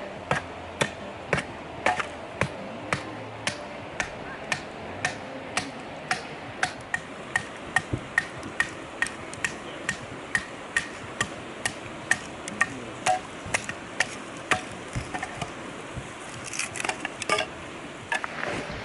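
Steady hammer blows, about two a second, some with a faint metallic ring, then a quicker, looser run of taps near the end. The river runs steadily underneath.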